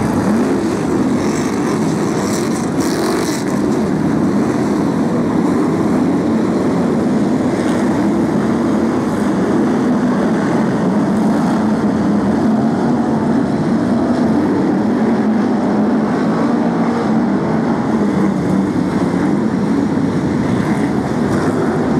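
The V8 engines of a pack of BriSCA F1 stock cars running together: a loud, steady drone made of many engine notes rising and falling against one another.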